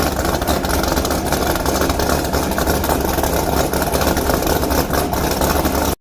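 Corvette C6 Z06's 7.0-litre LS7 V8 idling steadily through a Corsa Extreme exhaust, cutting off suddenly near the end.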